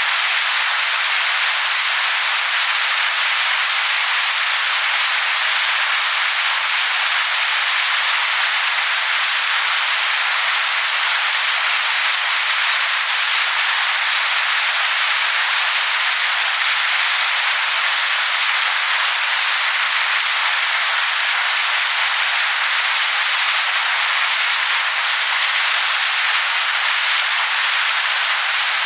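Waterfall splashing onto rocks: a steady, loud hiss of falling water, bright and with little low rumble.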